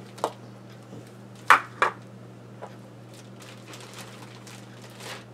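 A few light clicks and knocks from pipe-tobacco tins being handled, the loudest about a second and a half in, over a steady low electrical hum.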